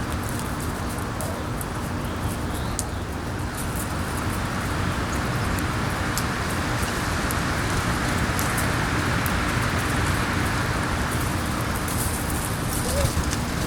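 Steady wind rushing and buffeting, swelling a little midway, with a few short chirps near the end.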